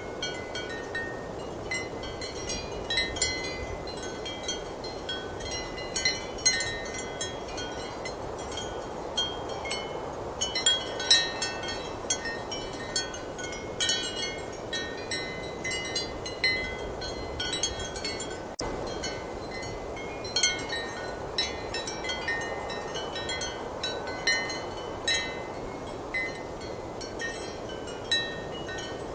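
Ceramic wind chimes clinking and ringing irregularly, struck often by strong wind, over a steady rush of wind.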